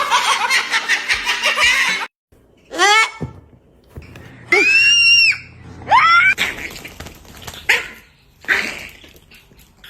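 A dog vocalising: about two seconds of rapid, wavering yelping. After a short pause come several separate rising-and-falling howl-like calls, then a couple of short barks near the end.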